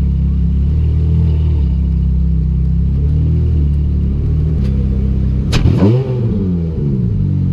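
Ferrari F430 Scuderia's V8 engine running at low speed, with one sharp throttle blip about five and a half seconds in: the pitch jumps up and falls back.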